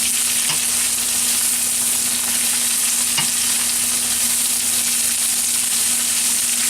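Peppers, garlic and green beans sizzling steadily in hot oil in a wok as they are stir-fried, with a couple of faint clicks about half a second and three seconds in.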